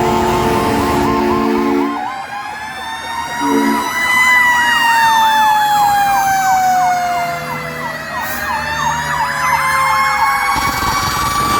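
Fire truck sirens and air horns: a steady air horn blast at the start and a short one again, then several sirens at once, a slow wail rising and falling alongside a rapid yelp, with another wail climbing near the end.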